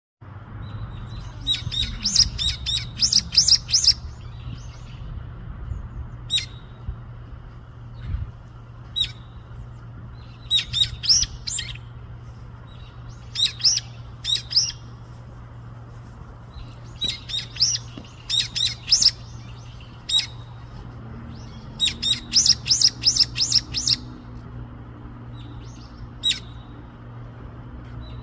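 Brown-eared bulbul calling: bursts of rapid, high chirps every few seconds with single short notes between, over a steady low hum.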